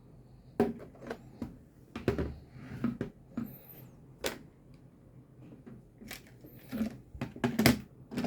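Bootleg Zero-One Driver toy belt and a Progrise Key being handled: a string of sharp plastic clicks and knocks, about ten in all and irregularly spaced, with the loudest clack near the end.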